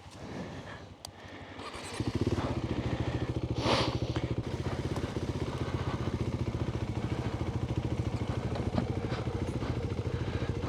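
Off-road motorcycle engine starting up about two seconds in and then idling steadily with an even beat. A brief scraping or rustling noise comes shortly after it starts.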